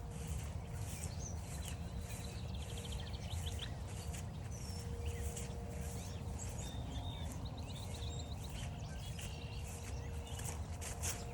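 Footsteps on a forest trail at a steady walking pace, about two steps a second. Small birds chirp and trill now and then behind them.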